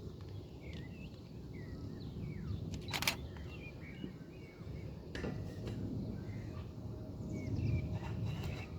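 Small birds chirping and calling in short, rising and falling notes over a steady low rumbling noise, with a sharp click about three seconds in.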